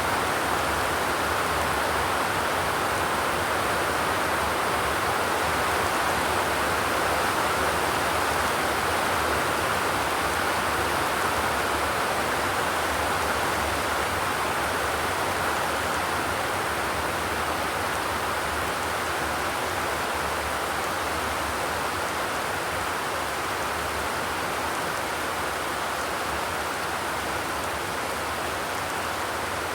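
Steady rain without thunder, an even hiss with no distinct drops or breaks.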